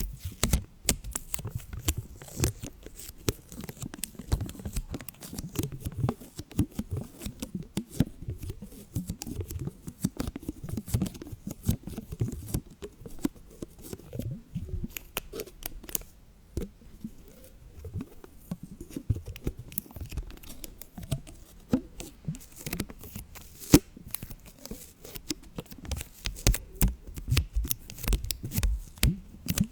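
Close-miked crackling and clicking: a dense, irregular run of small snips, taps and crackles, with no steady hiss.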